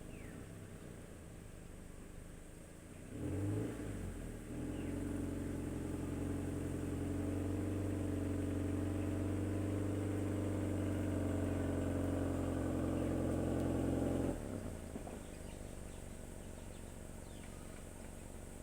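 Manual car's engine running quietly, then rising about three seconds in to a louder, steady, even-pitched running that holds for about eleven seconds before dropping back sharply to the quiet hum.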